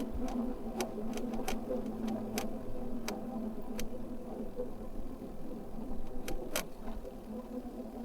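Electric bike motor running with a steady hum, with scattered sharp clicks and ticks from the bike as it rolls along a rough lane, and a low wind rumble.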